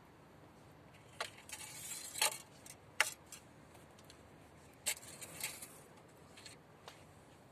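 Small hard objects being handled: a few sharp clicks and short rattling rustles in two clusters, about a second in and again about five seconds in.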